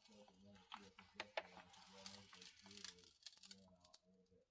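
Near silence: a few faint clicks and rustles of a diamond painting kit's packaging being handled, over faint background talk.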